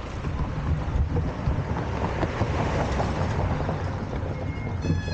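Wind buffeting the microphone and low rumble from riding, with a short high whistle-like tone right at the end.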